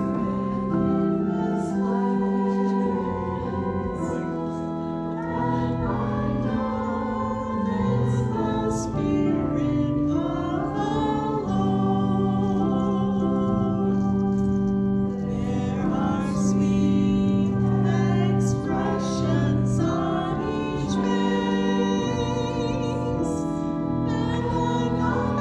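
Church choir singing a gospel song over organ, with long held notes and sustained bass chords.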